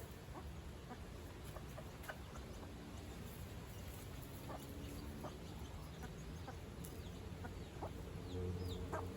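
Chickens clucking in short scattered calls, with a few high falling chirps near the end.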